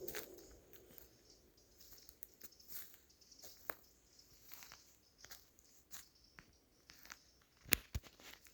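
Footsteps crunching and crackling through dry leaf litter and twigs on a forest floor, in small irregular crackles, with two sharp cracks of snapping twigs close together near the end.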